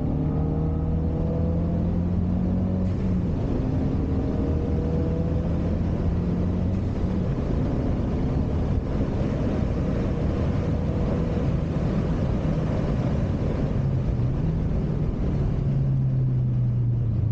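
Ford Focus RS's 2.3-litre turbocharged four-cylinder heard from inside the cabin at speed, its note rising as it pulls through the gears, under heavy road and tyre noise; near the end the engine note dips briefly and picks up again.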